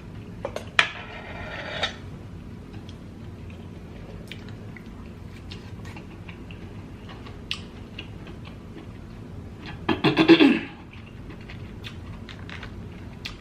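Eating and handling sounds from a sauced seafood boil: scattered small clicks and clinks of king crab shell and dishware. There are two short bursts of messy rustling and squishing, one about a second in and a louder one about ten seconds in.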